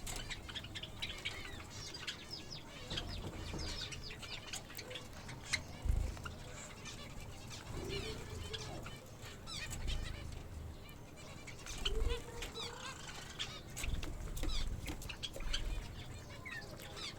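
A group of pet birds, Java finches among them, chirping and twittering over and over while feeding, with wing flutters, a couple of lower calls and scattered low thuds.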